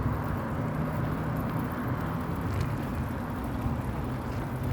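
Steady low road and traffic rumble with a faint hum, heard while riding a bicycle along a road.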